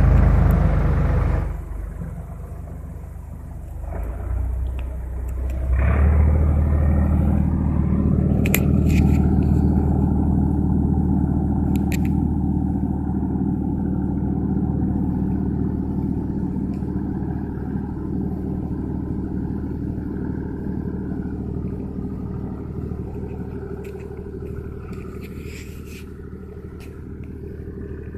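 Tractor engine running with a steady low drone. It grows louder about six seconds in, then slowly fades, with a few faint clicks over it.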